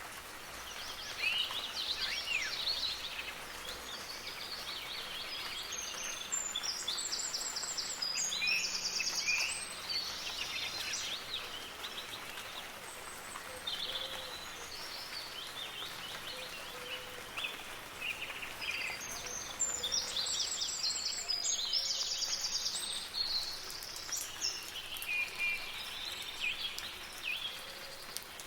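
Several songbirds chirping and singing over a steady hiss of soft rain. A dense, rapid high trill comes twice, about a quarter of the way in and again about two thirds of the way in.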